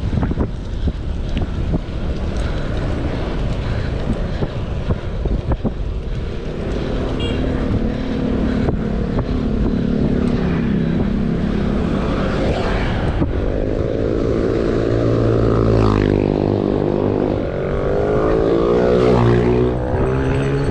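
Wind buffeting the microphone during a bike ride. In the second half a passing motor vehicle's engine hum swells in, its pitch rising and falling.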